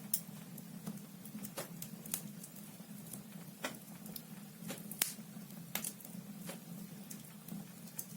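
Logs burning in a fireplace, crackling with irregular sharp pops several times a second over a steady low hum.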